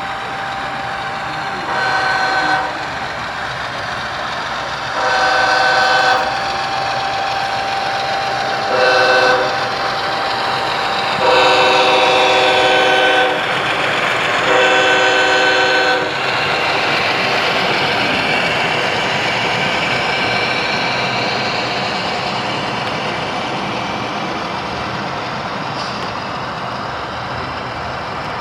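Sound-equipped HO scale model diesel locomotive's horn sounding five blasts: short, long, short, long, long, over a steady background hum.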